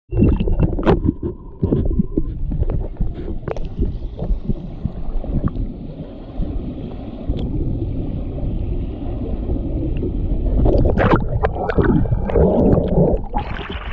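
Water-slide ride: a muffled, continuous rush and rumble of water with scattered knocks and bumps, growing louder and busier about eleven seconds in.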